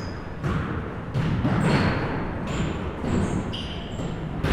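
Basketballs bouncing on a gym floor, a sharp thud every half second to a second, with short high squeaks of sneakers on the court and a low crowd murmur in a reverberant gym.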